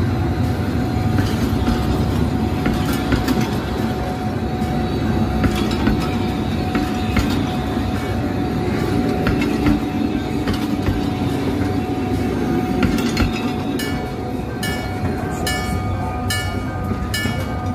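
Passenger train coaches rolling past at close range: a steady rumble with wheels clacking over the rail joints. In the last few seconds a repeated ringing chime joins in, about once a second.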